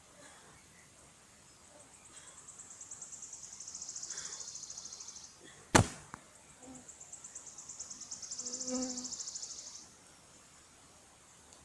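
A songbird singing a long, high, fast trill twice, each growing louder over about three seconds. Between the two trills comes a single sharp click, the loudest sound here.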